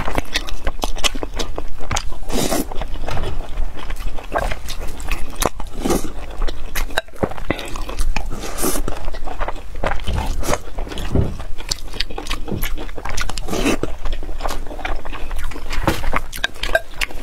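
Close-miked chewing of mouthfuls of rice and braised pork belly, full of short irregular mouth clicks and smacks.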